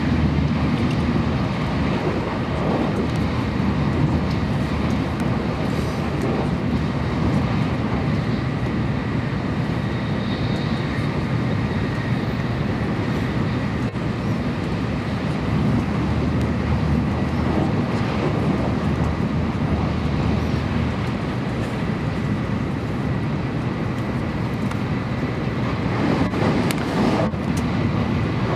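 Steady rumble and rush of a Shinkansen bullet train running at speed, heard from inside the passenger cabin, with a brief louder swell near the end.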